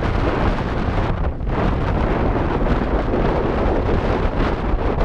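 Strong wind buffeting the microphone: a loud, steady rushing noise with a heavy low rumble.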